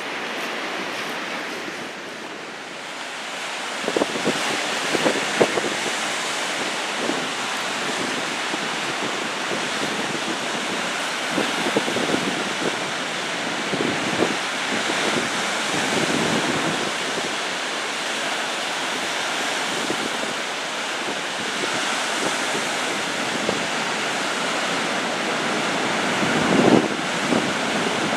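Large storm-driven waves on Lake Michigan surging and breaking in a continuous rush, with strong gusty wind buffeting the microphone in irregular thumps.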